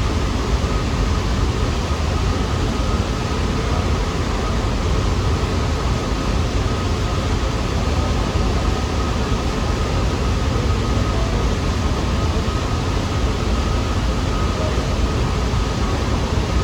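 Steady, loud rumble and hiss of a New York City subway train in the station, with a faint steady whine above it.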